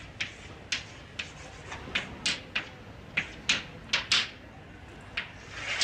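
A run of short, sharp clicks and taps at an uneven pace, about a dozen in all, with a soft hiss near the end.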